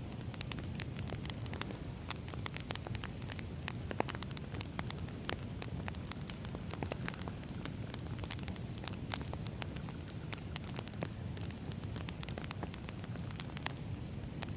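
Wood fire burning with a steady low rumble and frequent irregular crackles and pops from the burning logs.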